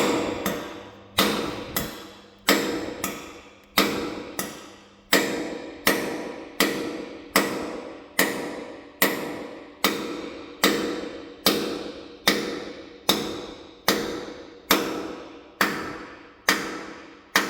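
Hammer blows on a steel wedge anchor bolt, driving it down into a drilled hole in the concrete floor: a steady run of sharp metallic strikes, about two a second, each ringing briefly.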